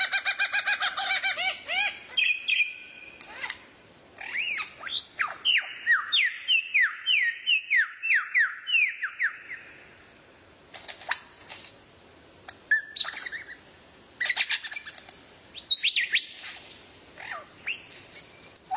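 Songbird singing: a fast run of repeated chirps, then a series of sharp, downward-slurred whistles about three a second, and after a short pause scattered high whistled notes.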